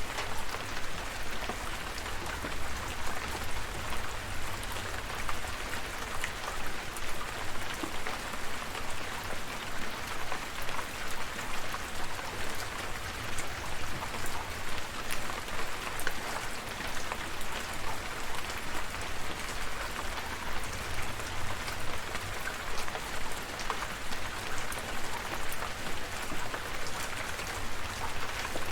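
Steady rain falling, with scattered individual drops ticking sharply above the even patter and a low rumble underneath.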